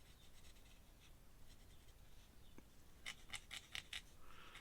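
Pen scratching across paper in faint drawing strokes, with a quick run of about six short strokes about three seconds in.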